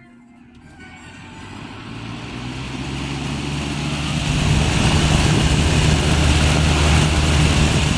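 1980s Dayton box fan starting up on high: its motor hum and the rush of air from the blades build over about four seconds as it comes up to speed, then hold steady.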